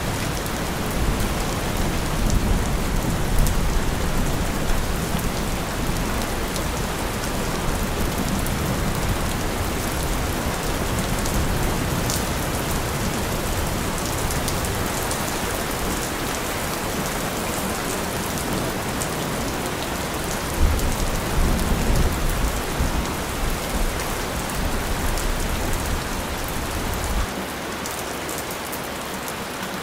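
Steady heavy rain falling, with low rumbles of distant thunder in the first few seconds and again about two-thirds of the way through. The low rumble cuts off suddenly near the end, leaving only the rain.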